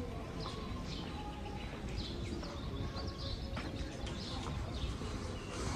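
Small birds chirping in short, repeated high calls over a steady low hum of street ambience.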